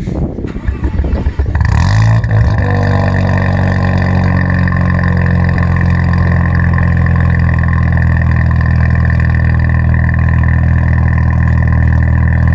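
A car engine starts about two seconds in, after a second or so of cranking. It then idles steadily, its revs easing down slightly just after it catches.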